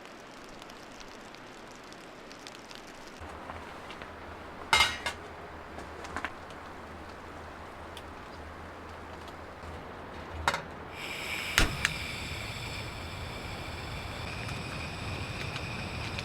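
A few sharp clinks and knocks over a steady low hiss, with a steady high-pitched whine setting in about eleven seconds in.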